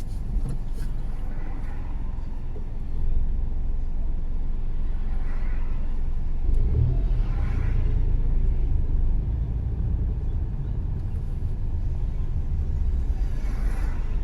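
Car on the move: a steady low rumble of road and engine noise that grows louder for several seconds in the middle, with a few brief swells of hiss rising and fading.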